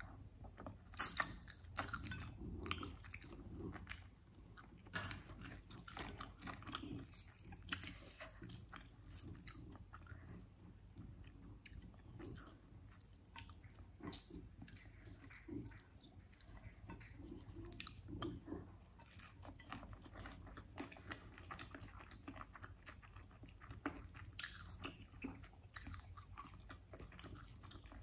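Chewing and biting of chicken wings eaten by hand, with sambal and rice: a steady run of small wet clicks and crunches, busiest in the first few seconds and again about eight seconds in.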